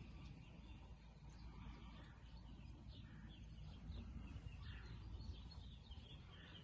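Faint birds chirping now and then, a few short falling chirps over a low steady rumble.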